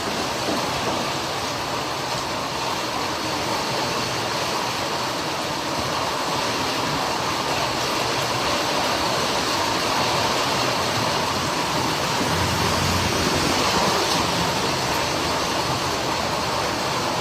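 Heavy rain pouring down steadily, a dense even hiss, with a brief low rumble about two-thirds of the way through.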